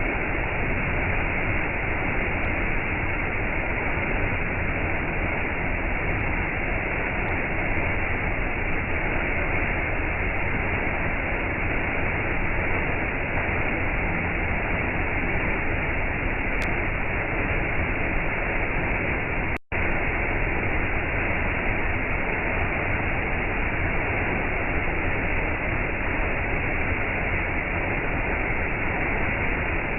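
Waterfall rushing with a steady, even roar of falling water, broken once by an instant's dropout about two-thirds of the way through.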